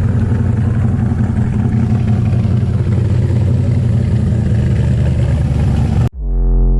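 Car engine running steadily at idle, a deep, even rumble. It cuts off abruptly near the end as electronic music begins.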